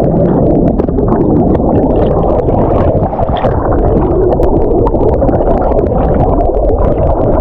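Muffled underwater rushing and bubbling as a camera plunges into the water with a jumper, full of low churning and scattered small bubble clicks. It changes abruptly near the end as the camera breaks the surface.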